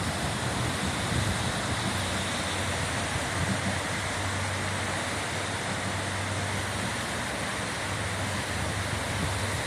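Floodwater rushing steadily down a wadi after rain, a constant even rush.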